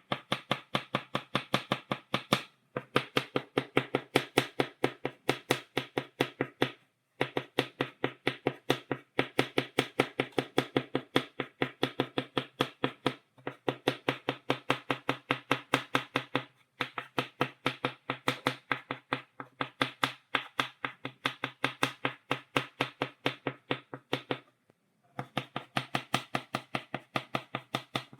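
Chalk tapped rapidly against a blackboard to make dots: quick, even, sharp taps, several a second, in runs of a few seconds broken by short pauses.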